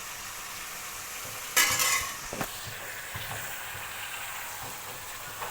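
Cut vegetables sizzling as they fry in hot oil in a pan, with a loud burst of clattering about one and a half seconds in as they are stirred against the pan, then a few lighter knocks.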